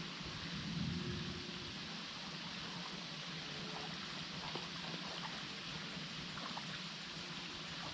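Steady flowing water, with scattered faint clicks and a brief low swell about a second in.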